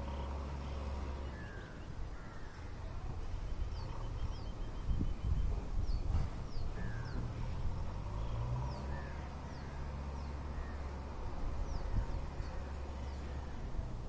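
Birds calling: a scatter of short, high, down-slurred chirps and a brief rapid trill about four seconds in, with a few lower slurred calls, over a steady low rumble.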